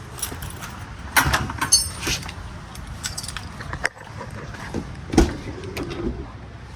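Keys jangling with scattered clicks and knocks, and one sharp knock about five seconds in, while the truck is readied for a cold start; the engine is not yet running.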